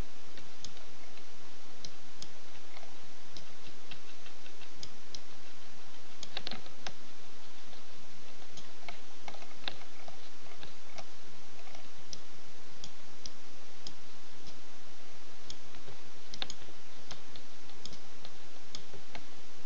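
Scattered, irregular clicks of a computer mouse and keyboard while working in a 3D program, over a steady hiss.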